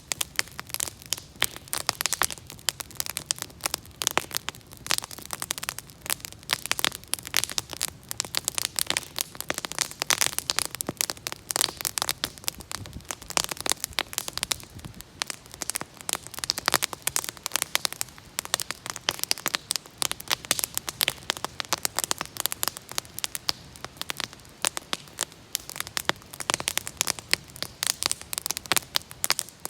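Wood fire crackling: a dense, irregular run of sharp snaps and pops over a soft low hiss.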